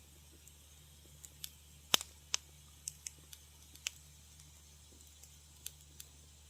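Wood fire crackling in a fireplace: irregular sharp pops and snaps, the loudest about two seconds in, over a faint steady low hum.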